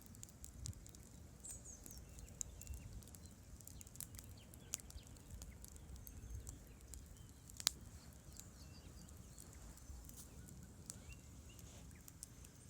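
Wood campfire crackling, with irregular sharp pops and one louder snap about two-thirds of the way through, over a faint low rumble.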